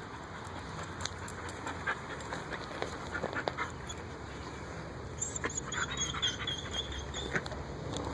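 A frightened dog whining high-pitched for about a second and a half around the middle, among scattered small clicks and crackles.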